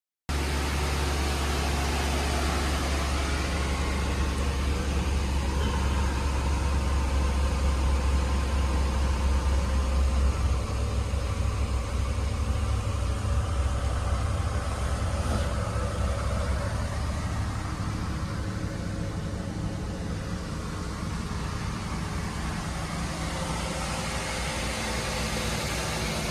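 1979 Cadillac Seville's V8 engine idling steadily, a deep low hum that cuts in abruptly at the start; the low note shifts slightly about ten seconds in.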